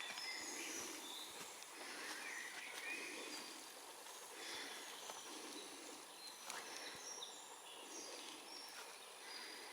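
Faint woodland ambience with birds chirping now and then, short high calls scattered through, and a few faint clicks.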